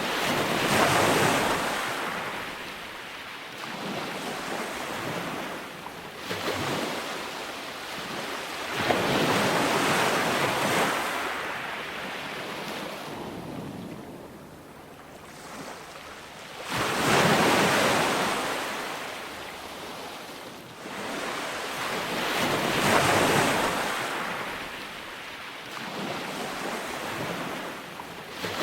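Calm ocean surf breaking and washing ashore, swelling and fading every few seconds.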